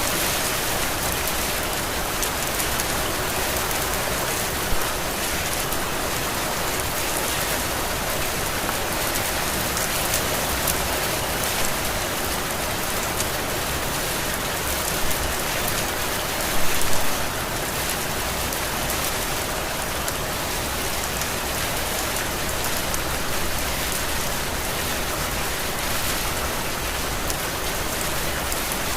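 Heavy rain falling steadily, a dense even hiss, with a few louder drop impacts standing out, a short cluster of them about 17 seconds in.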